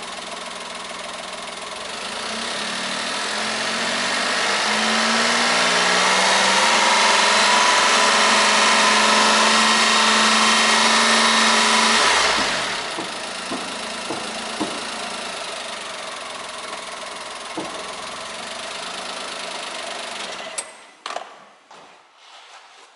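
Honda Vamos Hobio Turbo's 660 cc turbocharged three-cylinder engine idling. It is revved up over a few seconds and held at a raised, steady speed, then drops back to idle about halfway through. The engine is switched off near the end, followed by a few clicks.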